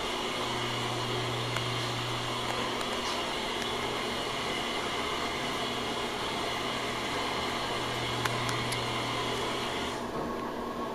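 Exhaust fan running with a steady low hum and an airy whir. About ten seconds in, the higher part of the whir drops away and the sound gets a little quieter.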